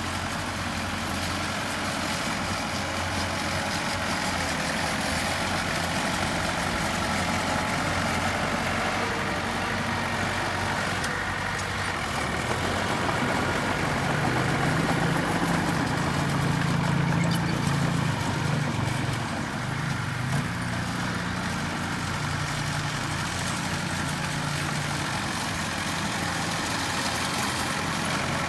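Diesel engine of a heavy earthmoving machine running steadily, with a deeper, louder pull for several seconds in the middle as it works under load.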